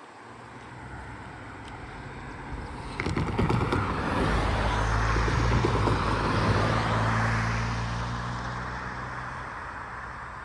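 Diesel-hauled passenger train passing the crossing. Its engine drone and rolling noise build quickly about three seconds in, with a run of clicks, hold for a few seconds and then fade away.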